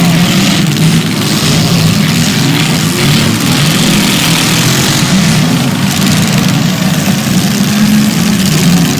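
Demolition derby cars' engines running loudly and steadily, a rough low drone that wavers slightly in pitch.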